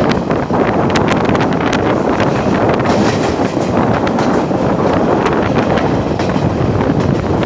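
Express passenger train passing through a station: a loud, steady rush of the train running on the rails, with scattered sharp clicks, mixed with wind buffeting the microphone.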